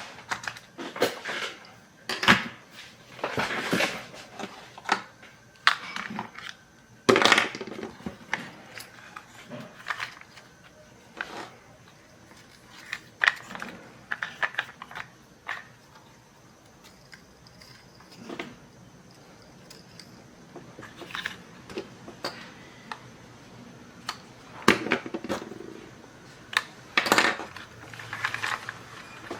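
Hard plastic toy parts and small tools being handled on a workbench while a broken toy dinosaur is taken apart: irregular clicks, knocks and short rattles, with a few louder clacks.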